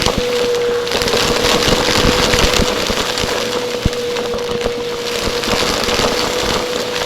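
Vacuum cleaner running close to the microphone: a steady motor whine over a loud rush of air, with many scattered crackles and clicks, one sharper click nearly four seconds in.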